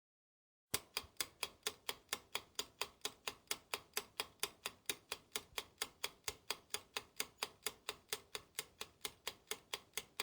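Steady, even ticking, like a clock or countdown-timer sound effect, about four ticks a second. It starts sharply out of dead silence a little under a second in.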